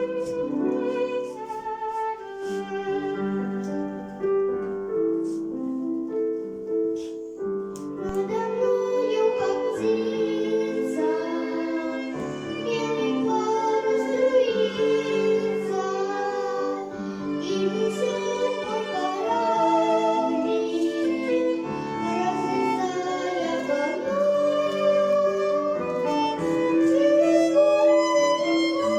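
Music: a children's song with a violin playing the melody over an accompaniment, continuous throughout.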